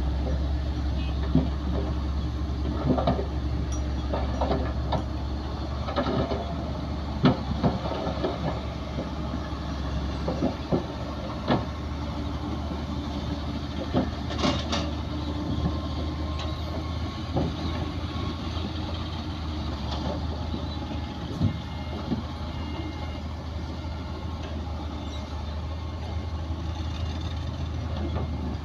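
Heavy diesel earthmoving machinery, a bulldozer and dump trucks, running steadily at a low hum, with repeated sharp knocks and clanks that thin out in the last few seconds.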